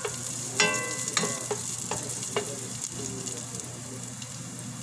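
Garlic and onion sizzling in a little oil in a stainless steel pot. A wooden spatula stirs and knocks against the pot a few times in the first two and a half seconds, then only the steady sizzle goes on.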